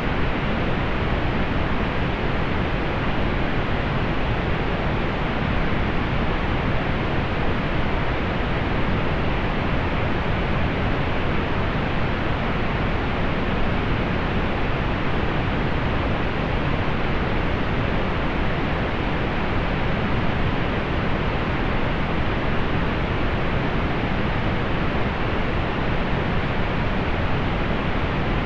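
Steady, unchanging pink noise: an even hiss with more weight in the low end, falling away in the high treble.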